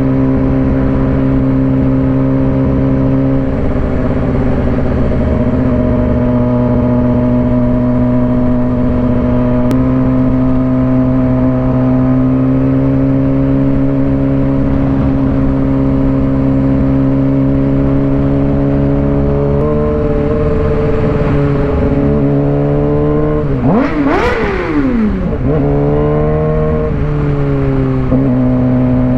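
Suzuki GSX-R600 inline-four engine heard from the rider's seat, holding a steady engine speed for most of the time. About two-thirds through the pitch climbs, then a quick rev swoops up and back down before the engine settles into a steady note again.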